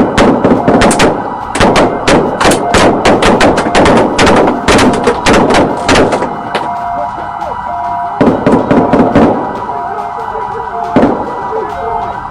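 A long volley of police gunfire: dozens of rapid handgun shots over the first six seconds, then a few scattered shots about eight and nine seconds in and a last one near eleven seconds. A police siren sounds steadily underneath.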